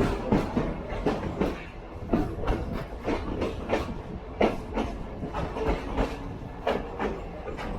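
Open-air railroad passenger car rolling along the track: a steady low rumble with irregular clicks and clunks, several a second, from the wheels on the rails and the car's running gear.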